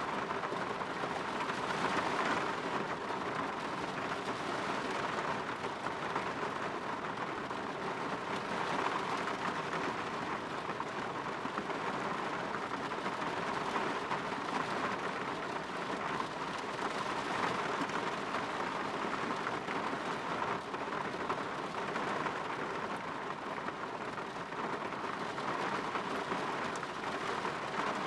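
Steady rain falling on a window pane, an even hiss that swells slightly now and then.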